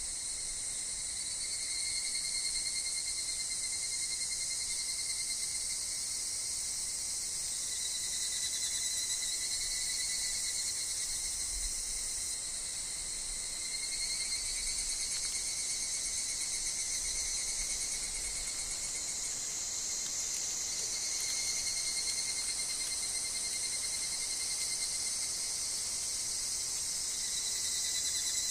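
Steady chorus of insects including higurashi (evening cicadas): a dense high-pitched buzz, with lower trilling tones that swell and fade every few seconds.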